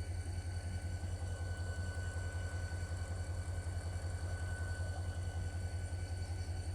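Diesel-electric locomotive idling: a steady low, quickly pulsing engine rumble with a thin steady whine above it.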